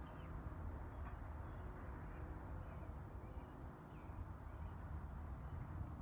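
Faint bird chirps, short falling calls about once a second, over a steady low outdoor rumble.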